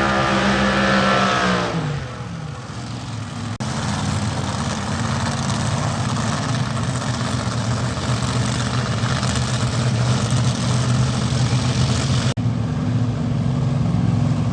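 Car engine held at high revs, then dropping off about two seconds in, followed by a steady low engine rumble that changes abruptly twice.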